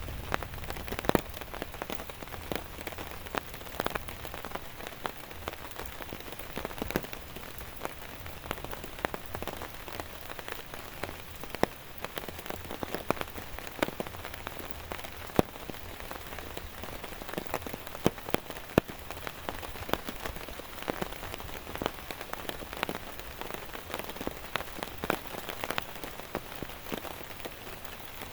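Steady rain: an even hiss with frequent, irregular sharp ticks of large drops striking a close surface.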